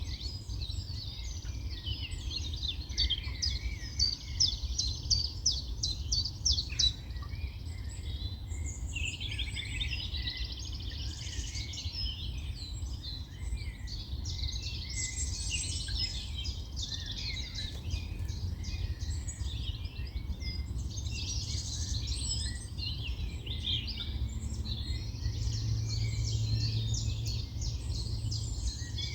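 Several wild birds singing at once, a continuous chorus of chirps and rapid trills, with a quick repeated trill standing out a few seconds in. Under it runs a steady low rumble, which swells with a faint hum near the end.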